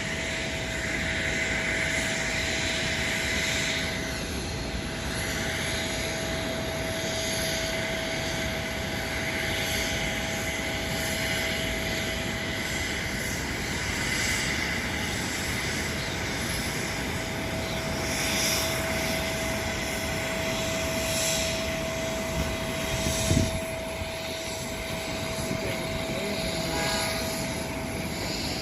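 Boeing 737 jet engines running steadily as the airliner comes in to land, a continuous rushing noise with a constant high tone running through it. There is a brief low thump about twenty-three seconds in.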